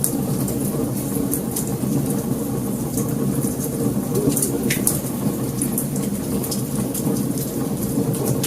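Wood fire burning: a steady low rush of flames with frequent, irregular sharp crackles and pops, one louder pop about halfway through.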